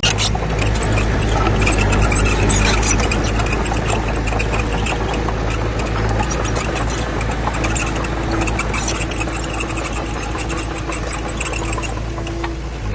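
Heavy diesel engine of earthmoving machinery running, with a deep rumble and constant metallic clatter and rattling. A steady hum joins in for the second half.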